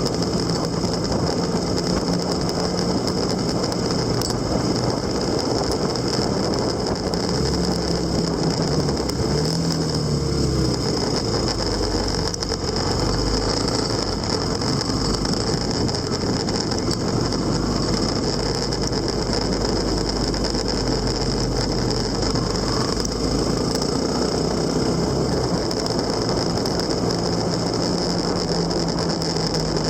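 A motor vehicle's engine running continuously, its pitch stepping up and down now and then, over steady road and wind noise.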